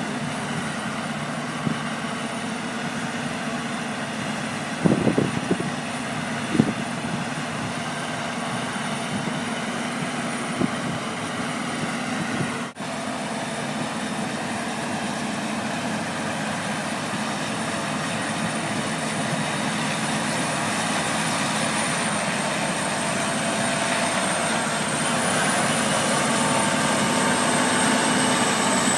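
Tractor engine running steadily, with a cluster of sharp knocks about five seconds in and another at six and a half, and a brief dropout near the middle. The engine grows a little louder toward the end.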